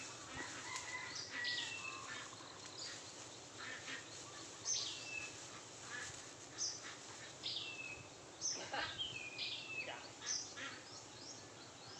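A bird calling again and again: about a dozen short notes at uneven intervals, each dropping sharply in pitch and then levelling off, over a faint steady hiss.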